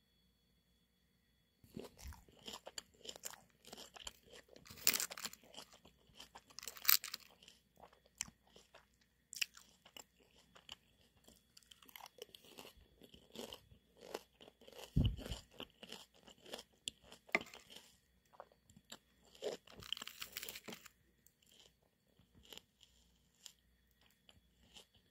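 Crunchy chewing of fresh salad greens and raw bell pepper, in irregular crisp crackles. It starts about two seconds in and thins out near the end.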